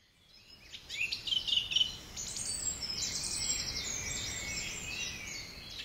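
Birdsong: several small birds chirping and twittering in quick overlapping calls, fading in about a second in, over a faint background ambience.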